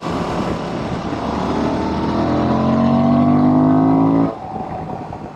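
Honda Transalp XL750 motorcycle engine accelerating, its pitch rising steadily, then cutting off abruptly about four seconds in, leaving quieter road and wind noise.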